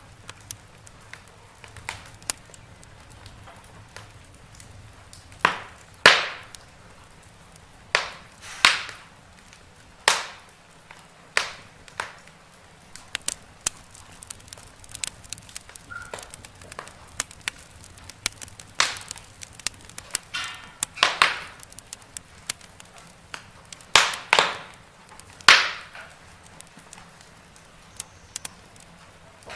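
Wood fire crackling in a fireplace: irregular small snaps with louder pops now and then, each dying away quickly, over a faint steady hiss.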